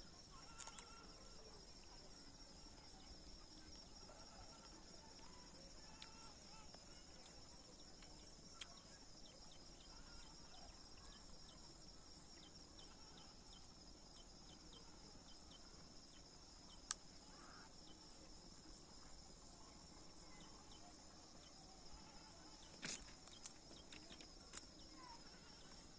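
Faint steady insect chorus, a high pulsing trill, with a few soft clicks here and there.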